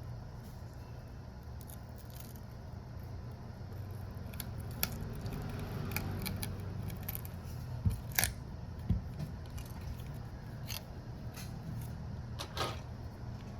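Scattered small clicks and scrapes of hand tools working on a Redmi Note 7 phone during a battery replacement, over a steady low hum. The sharpest clicks come about eight seconds in and again near the end.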